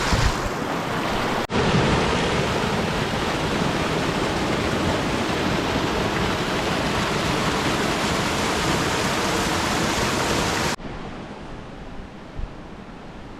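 Rushing creek water close by, a steady loud rush. It cuts out abruptly about a second and a half in and comes straight back, then near the end drops suddenly to a much fainter rush.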